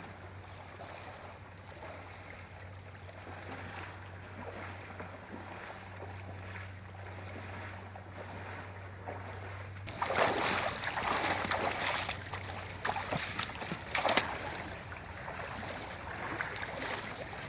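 A steady low hum, then about ten seconds in an abrupt change to louder water sloshing and splashing with scattered clicks and one sharp knock.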